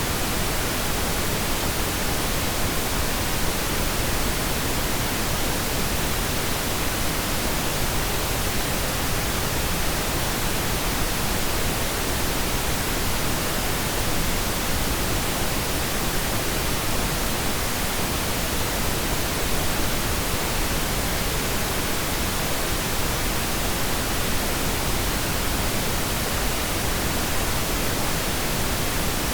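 Steady, even pink noise: a constant hiss that does not change.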